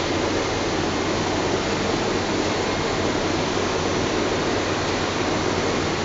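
Industrial biomass wood dust burner running on a steam boiler: a steady, even rushing noise with a low hum underneath.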